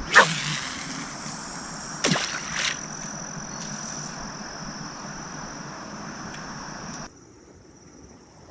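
A steady high-pitched chirring of night insects over a background hiss. Two sharp knocks come right at the start and two more about two seconds in. The background drops away suddenly about seven seconds in.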